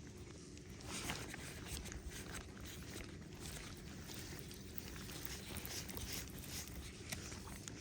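Wind buffeting the microphone with a steady low rumble. From about a second in there are scattered light ticks and crackles, such as rain or handling noise.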